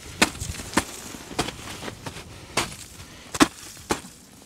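Boots stamping and kicking into a frozen ice crust on the ground, breaking it with sharp cracks, about six at uneven intervals.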